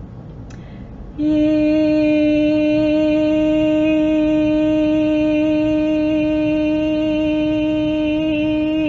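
A woman's voice toning a long, steady "ee" vowel for the crown chakra, beginning about a second in and held at one unchanging pitch.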